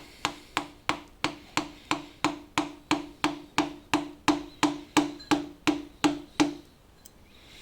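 Steady hammer taps, about three a second, driving a sharp carpet knife through a caked-on gasket and sealant on a Holden 253 V8 during teardown. Each tap leaves a short ringing tone. The tapping stops about six and a half seconds in.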